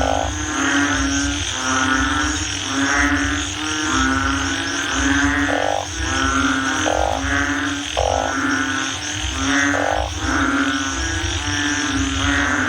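Frogs croaking over and over in a steady rhythm, about three calls every two seconds, over a low droning hum.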